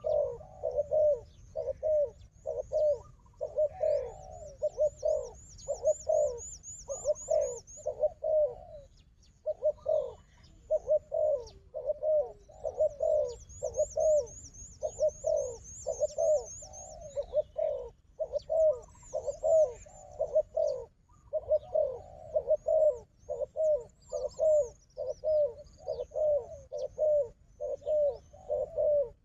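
Doves cooing in a rapid, unbroken string of low coo notes. Twice, a faster, very high-pitched trill from a smaller bird runs over them for a few seconds.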